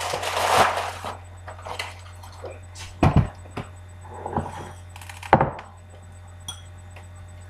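Breakfast things being handled on a table: a brief rattle of dry cereal near the start, then several sharp knocks, as a bowl and box are set down.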